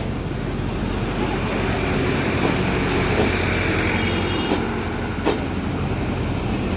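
Mongla Commuter local train running: a steady engine hum and rumble, with a single sharp click about five seconds in.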